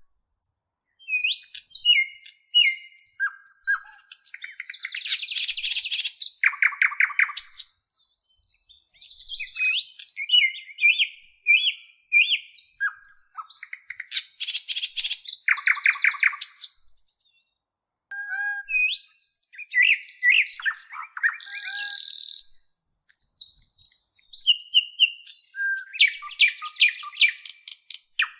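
Songbirds singing a varied, lively song of chirps, whistled glides and rapid buzzy trills, in phrases broken by two brief pauses.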